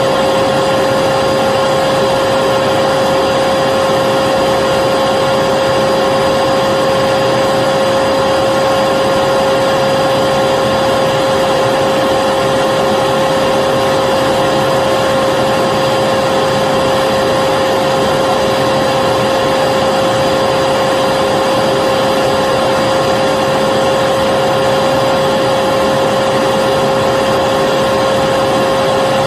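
Vacuum cleaner motor running continuously at a constant speed: an even rushing noise with a steady hum, looped as a soothing sound for putting a baby to sleep.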